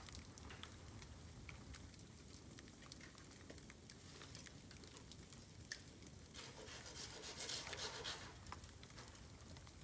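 Bamboo burning in an open campfire, with faint scattered crackles and a stronger hiss that lasts about two seconds past the middle.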